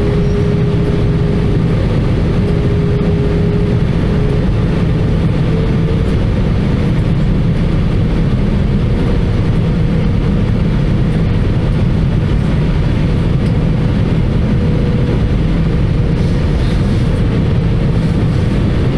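Airbus A320 cabin during descent: the steady roar of its CFM56 engines and the airflow over the fuselage, with a faint steady whine that steps up a little in pitch about five seconds in.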